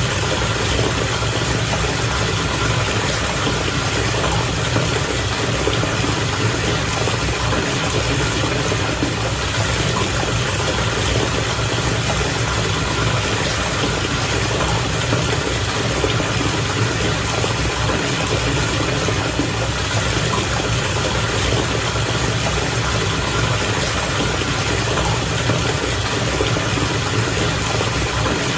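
Water bubbling steadily in a bath, with a low, even hum underneath.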